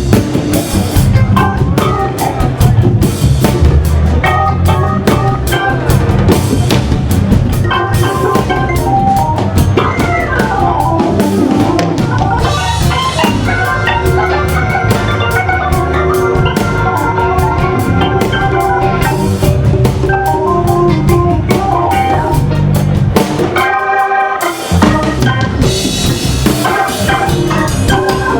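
A live band playing with a drum kit and a Hammond organ. Through the middle the organ holds long chords over steady drumming. Near the end the low end drops out for a brief break, then the band comes back in.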